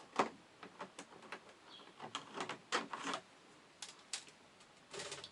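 Plastic parts of an RV air conditioner's ceiling vent assembly being handled as the vent louvers and filters come out: irregular light clicks and taps, a few sharper than the rest.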